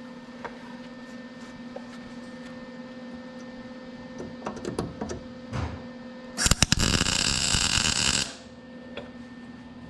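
MIG welder arc laying a short plug weld into a drilled spot-weld hole in sheet metal, filling the hole to fix a loose inner fender panel. A few sharp clicks as the arc strikes about six and a half seconds in, then about two seconds of loud crackling before it stops, over a steady hum.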